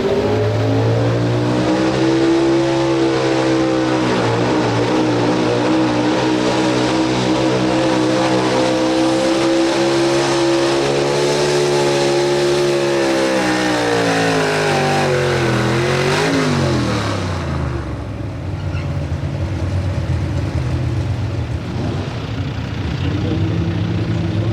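Pro Street 4x4 truck engine held at high revs under full throttle, its pitch steady for most of the run. About thirteen seconds in the pitch falls, and a few seconds later the throttle closes, leaving the engine running lower and quieter.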